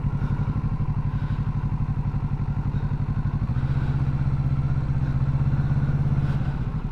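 Motorcycle engine running at low revs with an even, pulsing note. A little over three seconds in it grows heavier and slightly louder as the clutch bites and a touch of throttle creeps the bike forward, then eases back near the end.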